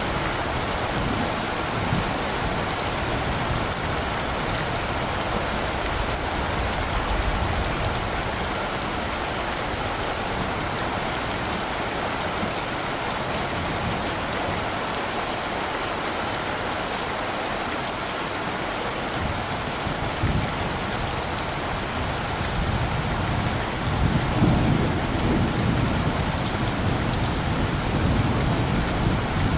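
Steady rain falling, with the fine patter of individual drops. A low rumble of distant thunder swells up about five seconds before the end.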